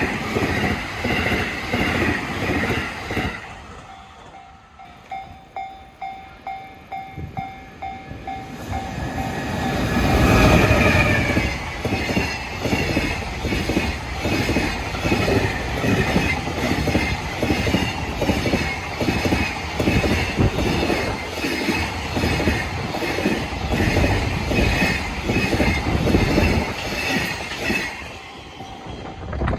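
Trains passing over a level crossing, their wheels clattering rhythmically over the rail joints. In the short gap between them the crossing's warning bell pulses about twice a second. The second train sweeps in loudly about ten seconds in and clatters past for most of the rest.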